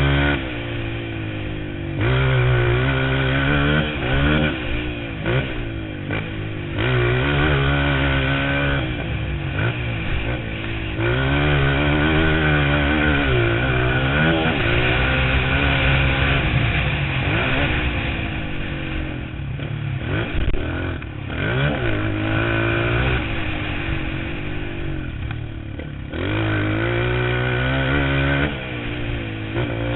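Motocross bike engine revving up and dropping back again and again, the pitch climbing and falling every couple of seconds.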